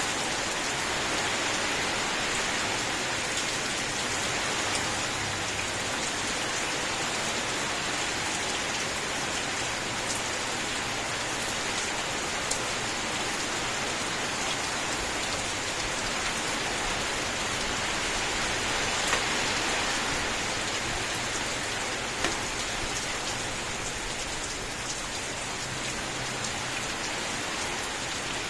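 Steady, continuous rain falling on a surface, a dense even hiss with scattered individual drop ticks.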